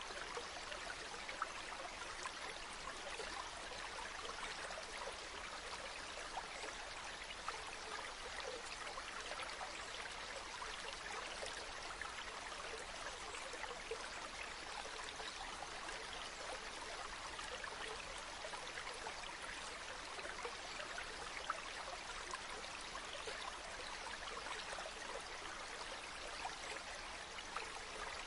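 A river babbling steadily, with a few sharp pops from a crackling campfire scattered through it.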